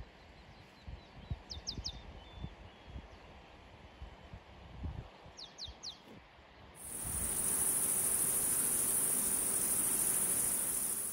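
A few short, high bird chirps over faint low rumble. About seven seconds in, a loud, steady, high-pitched insect buzz starts abruptly and holds.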